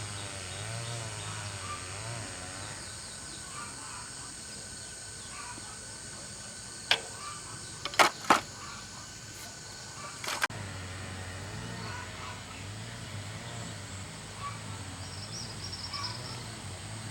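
A low, pulsing hum with four sharp knocks in the middle, two of them close together; the hum stops for a couple of seconds around the knocks.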